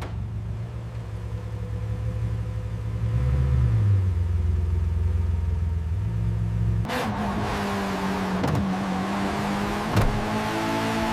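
A car engine running low and steady, its pitch lifting briefly a few seconds in. About seven seconds in, a brighter, louder sound cuts in, with held tones that shift in steps.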